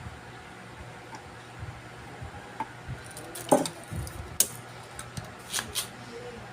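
Light clicks and knocks of small tools and parts being handled on an electronics repair bench, the loudest about three and a half seconds in, with several more after it. A steady low hum runs underneath.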